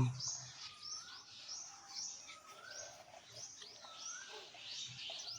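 A small bird chirping faintly: a run of short, quick calls with brief rising notes, repeating every second or so.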